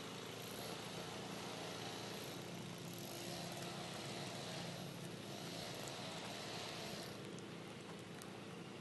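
A faint, steady motor-vehicle engine hum over outdoor street noise, with a few faint ticks near the end.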